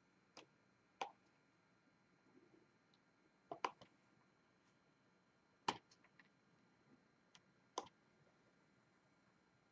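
Diamond painting work: small plastic-on-plastic clicks and taps, most likely the drill pen picking up and pressing resin drills onto the canvas. They come one or two at a time, irregularly spaced, against near silence, with the loudest a little after three and a half seconds and near six seconds.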